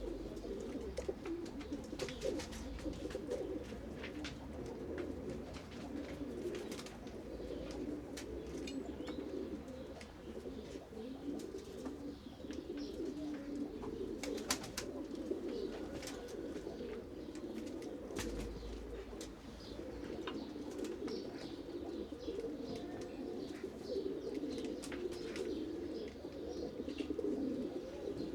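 A flock of pigeons cooing continuously, many low coos overlapping, with scattered sharp clicks among them.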